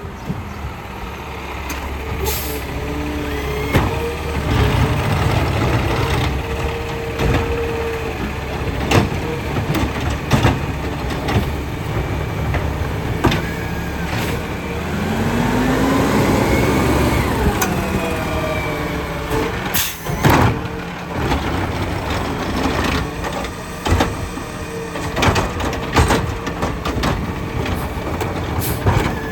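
Garbage truck at work: its diesel engine runs steadily while knocks and clanks come again and again. About halfway through, a whine rises in pitch and then falls away, and a sharp loud hiss or bang comes about twenty seconds in.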